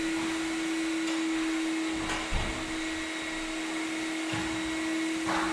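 Steady hum of a running electric machine, with one constant mid-pitched tone over a noisy whir, and a few soft low knocks.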